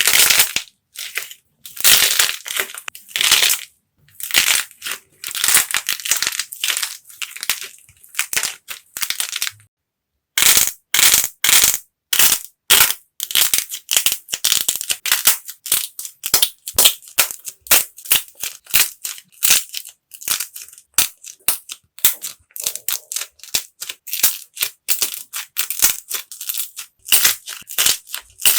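Dried clay being cracked and crushed by hand: crisp crackling in bursts of a second or so, stopping dead for a moment about ten seconds in, then going on as quicker, shorter crackles and crunches.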